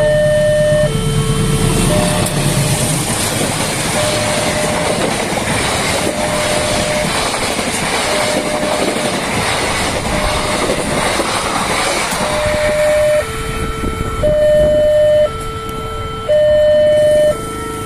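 Train passing a level crossing at speed: a CC203 diesel-electric locomotive rushes past, then the carriages' wheels clatter over the rails for about ten seconds. A two-tone level-crossing warning alarm alternates high and low throughout, heard clearly again once the train has gone by near the end.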